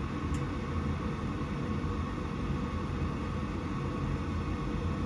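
Goodman gas furnace running with a steady mechanical hum during its start-up cycle, after its flame rod has been cleaned.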